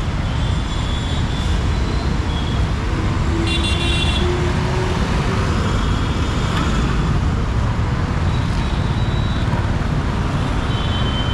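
Busy city road traffic with a steady low rumble, and vehicle horns tooting briefly several times, the most prominent about three and a half seconds in.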